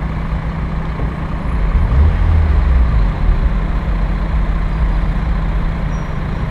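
Car engine running at low speed in slow traffic, a steady low drone that swells briefly about two seconds in.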